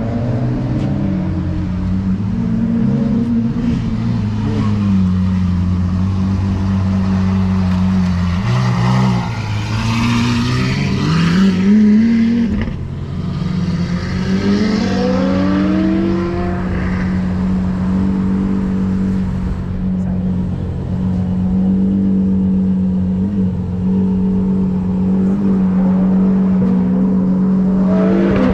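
Mitsubishi Lancer Evolution X's turbocharged four-cylinder engine running under way, holding a steady drone, then revving up with a rising pitch twice around the middle, with a rush of air noise as it pulls.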